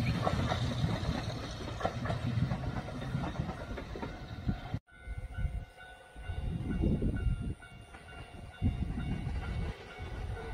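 Train running on rails: a steady rumble with repeated clicks, cut off abruptly about halfway through, then a quieter, uneven rumble with a faint high whine.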